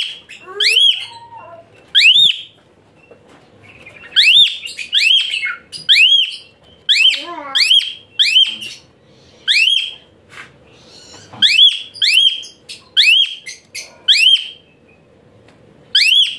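Asian pied starling (jalak suren) giving a rapid series of loud, shrill, sharply rising notes, about fifteen in all, in runs separated by short pauses.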